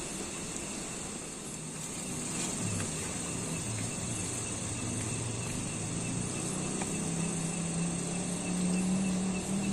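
Outdoor ambience: insects chirping over a steady hiss, with a low hum that comes in a few seconds in and grows louder toward the end.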